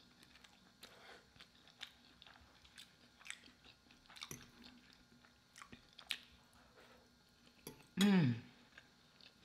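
Faint close-miked chewing and wet mouth clicks of a person eating soft, cheesy chicken pot pie lasagna. About eight seconds in, a short hummed 'mmm' that slides down in pitch, the loudest sound.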